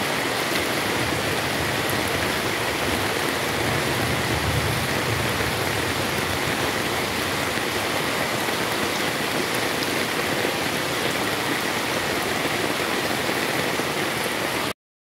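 Heavy rain falling on a flooded street, a steady dense hiss of rain and water that stops abruptly near the end.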